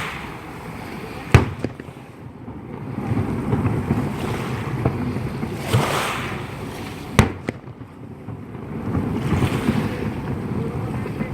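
Fireworks going off: two sharp, loud bangs about six seconds apart, with a few fainter pops, over a low surging rumble that swells and fades between them.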